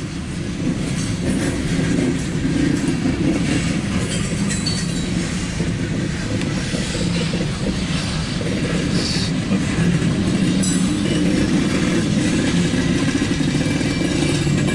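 Loaded coal hopper cars of a long CSX freight train rolling past: a steady rumble and rattle of steel wheels on the rails.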